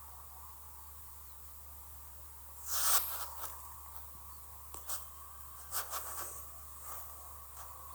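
Steady faint hum, broken by a short crackling rustle about three seconds in and then scattered clicks and crackles.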